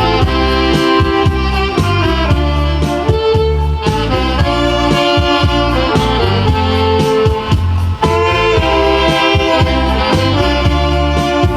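Saxophone playing a melody over an accompanying backing track with a steady bass line.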